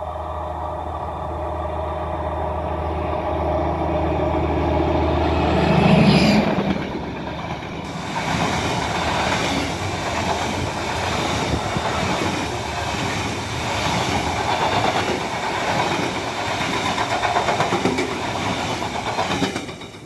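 A train passing close by: the locomotive's low steady drone grows louder as it approaches and peaks about six seconds in. The cars then roll past with a rhythmic clickety-clack of wheels over rail joints.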